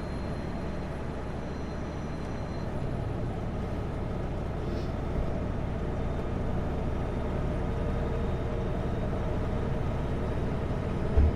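Kenworth W900L semi truck driving at highway speed, heard inside the cab: a steady low diesel engine drone mixed with road noise, growing slightly louder partway through. A brief low thump comes just before the end.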